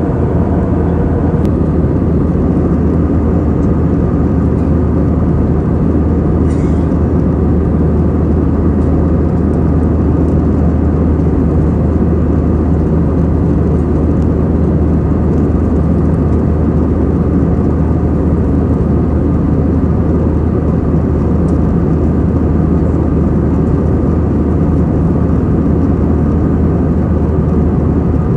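Steady low drone of an Airbus A320 heard inside the passenger cabin, engine and airflow noise holding constant.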